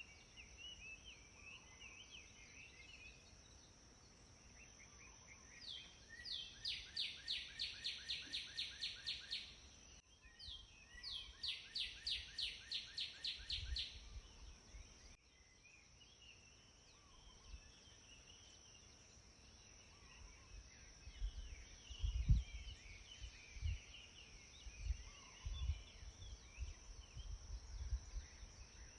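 Faint outdoor ambience with birds singing: two runs of rapid, evenly repeated chirps early on the first half, then scattered chirps over a steady high-pitched tone. In the second half, low thumps come in irregularly.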